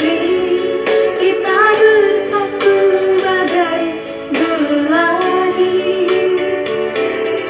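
A person singing a song, a melodic line with long held notes, over a musical accompaniment with regular struck or plucked beats.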